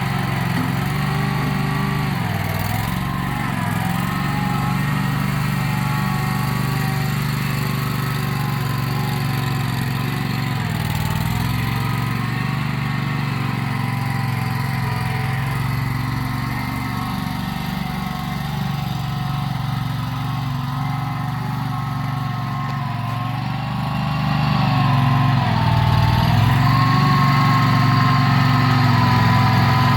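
Mini skid steer's Predator 670 V-twin gasoline engine running through a homemade black-pipe manifold and muffler. Its pitch dips briefly a few times, and it gets louder about three-quarters of the way through.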